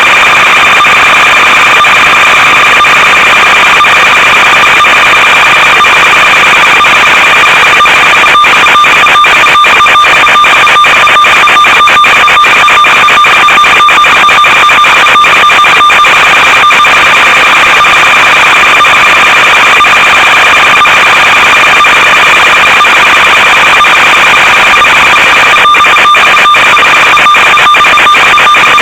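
Loud, steady electronic buzz with a few fixed high tones and frequent crackling clicks: the audio channel of an analog FPV video link from an RC plane, carrying interference and signal crackle rather than a clean sound.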